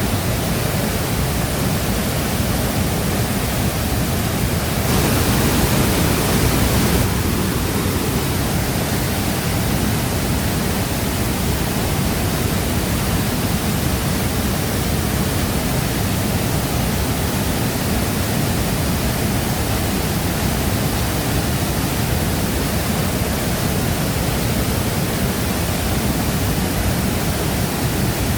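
Shifen Waterfall's water falling and rushing in a steady, loud, even wash of noise, swelling briefly a few seconds in.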